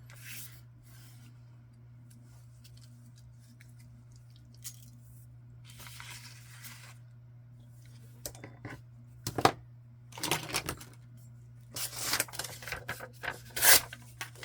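Paper rustling and crinkling as it is handled, with a few sharp clicks and taps, the loudest near the end, over a steady low hum.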